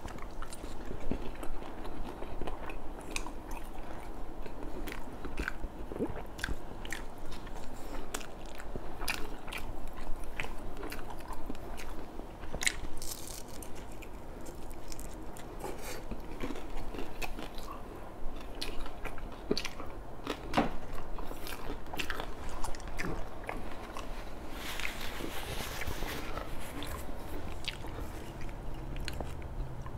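A person chewing and biting into crispy fried red tilapia, close to the microphone, with many short sharp crunches.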